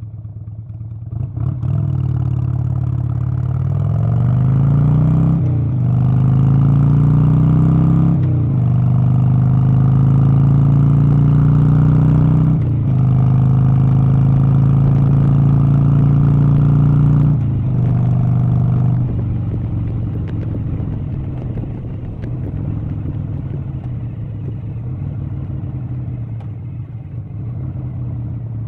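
A vehicle engine accelerating through the gears: its pitch climbs, breaks and drops at each of about four shifts, then settles to a steadier, quieter drone past the middle.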